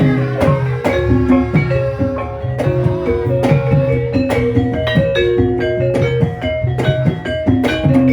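Javanese gamelan music, instrumental: a steady stream of struck metal-keyed notes over regular drum strokes, with no voice.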